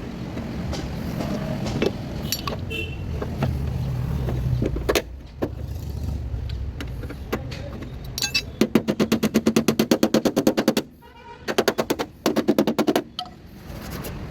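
A tool hammering in rapid, even strokes, about ten a second, in two bursts of about two seconds and one and a half seconds, after a low rumble with scattered clicks.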